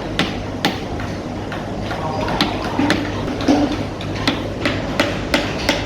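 Woodcarvers' mallets striking chisels into wood: sharp, irregular taps, about a dozen, some overlapping from more than one carver, with faint voices in the background.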